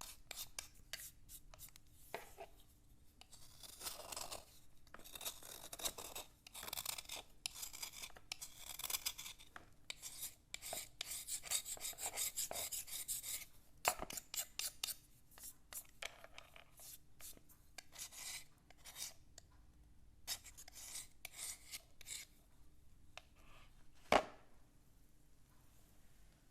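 Slate pencil scratching and rubbing across a writing slate in quick, irregular scraping strokes, densest about halfway through. Two sharp clicks stand out, one about halfway and one near the end.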